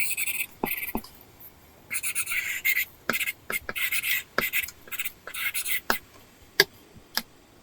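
Apple Pencil tip scratching across a paper-texture screen film on an iPad in short drawing strokes, with sharp taps of the pencil tip on the screen between strokes.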